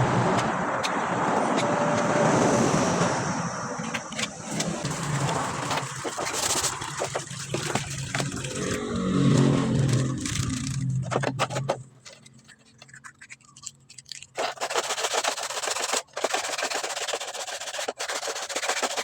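Motorcycle engine running steadily, then cutting out about twelve seconds in, followed by a run of scraping and clicking.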